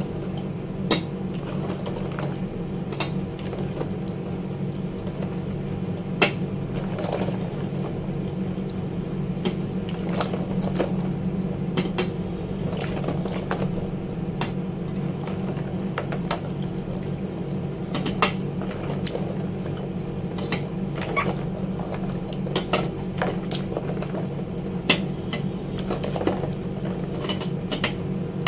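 Fridge parts being washed by hand at a sink: repeated clinks and knocks of the pieces against each other and the sink, over a steady rush of running water.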